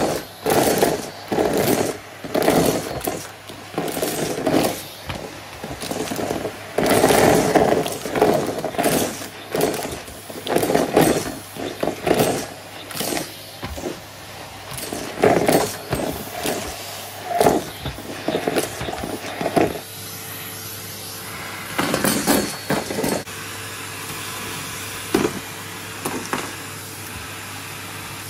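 Numatic Hetty cylinder vacuum cleaner running with a steady motor hum while it sucks up crunchy debris in rapid, irregular crackling and rattling bursts. About two-thirds of the way through the crackling thins out to a few scattered bursts over the steady hum.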